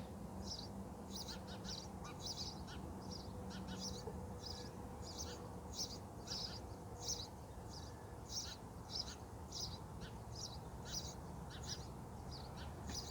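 Nestling birds begging for food: faint, high-pitched cheeps repeated about twice a second without a break.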